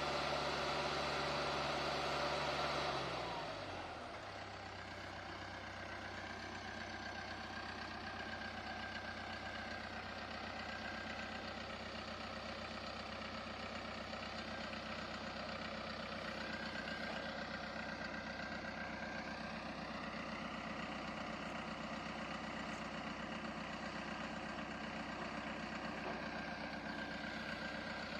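2009 Caterpillar D3K LGP bulldozer's diesel engine running at high revs, then winding down about three seconds in to a steady idle.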